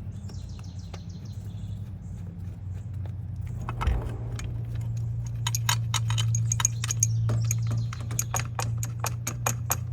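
Small metal bolts and hand tools clinking and rattling as they are handled, with a quick run of sharp metallic clicks through the second half, over a steady low hum.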